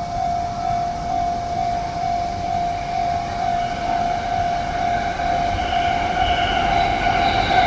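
A steady electronic warning tone sounds throughout as a JR E233-series electric train approaches to pass through the station. From about five seconds in, the train's running noise and a whine build up and grow louder as it nears.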